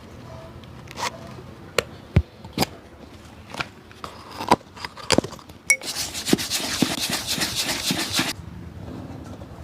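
Scattered taps and knocks as a shoe is handled on a cobbler's stand, then a burst of rapid scraping or brushing strokes on the shoe, about ten a second, for two to three seconds.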